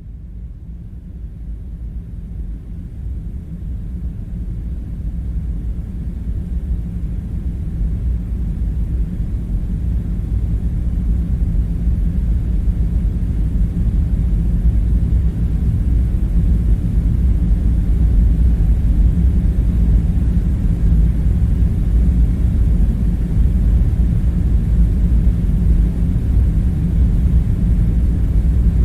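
A steady low rumble with a deep hum, fading in over the first fifteen seconds or so and then holding level: the background drone of an underground bunker ambience.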